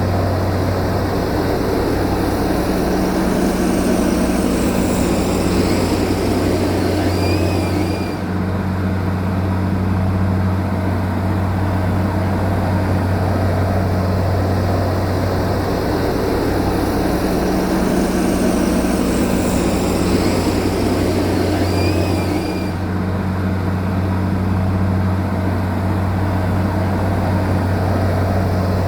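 A heavy engine runs steadily with a low, constant drone. The identical pattern recurs about every 14 seconds, as a looped sound track does.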